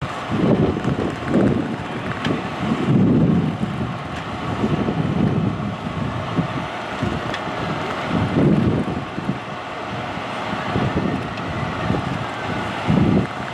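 Wind buffeting the microphone in irregular gusts over a steady background rumble.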